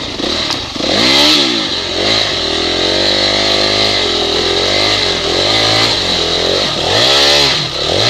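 Honda CRF four-stroke dirt bike engine being ridden, the revs swinging up and down with the throttle: a sharp rev about a second in, a steadier pull through the middle, and another rev near the end.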